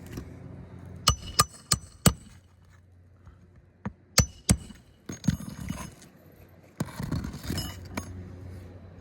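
Sharp, ringing metallic strikes of a hand roofing tool on shingle nails: four quick blows, a pause, then three more, followed by scraping and rustling of asphalt shingles.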